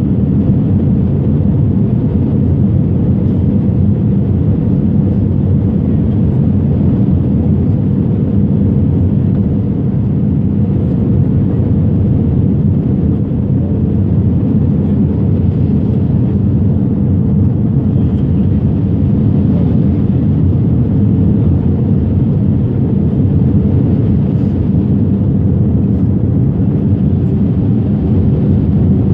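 Steady drone of an airliner's engines and rushing air heard from inside the passenger cabin, loud and unchanging, weighted to the low end.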